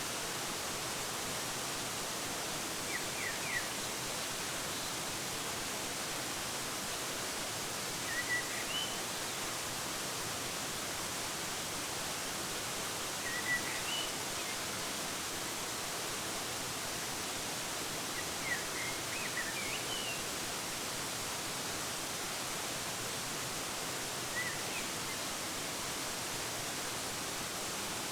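Steady rush of a waterfall, with short bird chirps roughly every five seconds, some rising in pitch.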